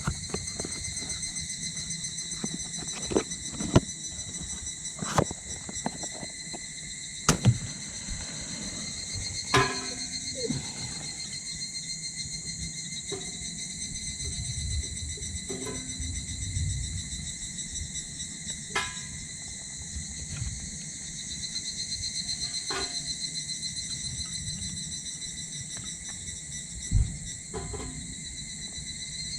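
Wood fire burning in a small titanium wood stove, crackling with a scattering of sharp pops, over the steady high chirring of insects.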